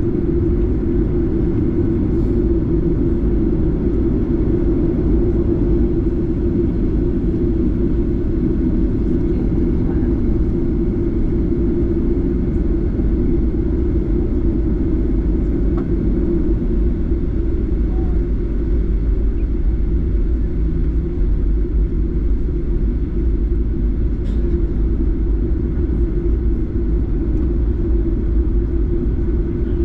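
Boeing 737-8 cabin noise heard from a seat near the engine: a loud, steady rumble of the CFM LEAP-1B turbofan and airflow, with a constant low hum and no change in power.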